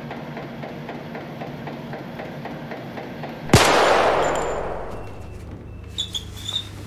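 A single pistol shot about three and a half seconds in, sudden and loud, with a long echoing tail that fades over a second or two. Before it there is only a low steady hum.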